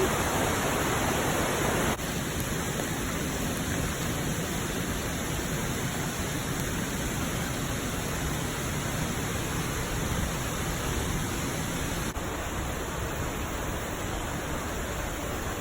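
Steady rush of falling water from a waterfall, an even hiss with no distinct events, dipping slightly about two seconds in.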